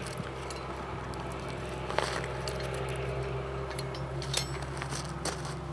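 A few light metal clicks, about 2 s, 4.5 s and 5.3 s in, from U-bolts and harrow parts being handled, over a steady low mechanical hum.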